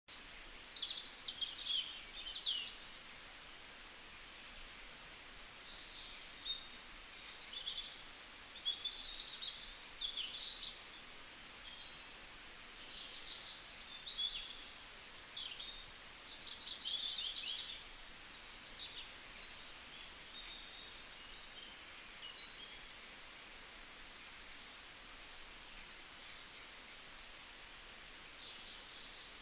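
Small songbirds chirping and twittering in quick high calls, with a steady faint hiss underneath.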